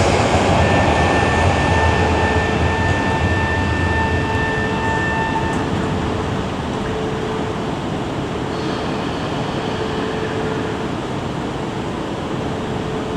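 Shinkansen train running along the platform, its loud rushing noise fading over the first several seconds, with a steady high whine that stops about five and a half seconds in, leaving a quieter station hum.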